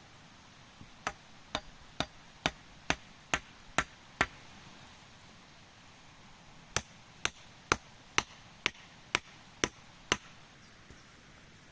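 Wood being chopped: two runs of about eight sharp blows each, roughly two a second, with a pause of a few seconds between them.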